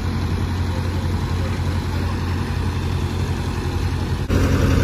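A heavy vehicle's engine running at a steady idle. About four seconds in, the sound breaks off abruptly and comes back a little louder.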